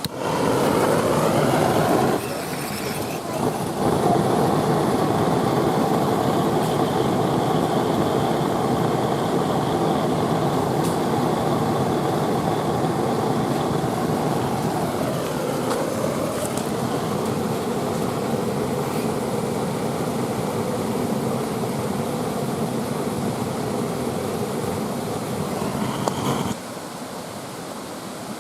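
A motor vehicle's engine running steadily with a noisy hum, its pitch dipping briefly about halfway through; the sound starts and cuts off abruptly.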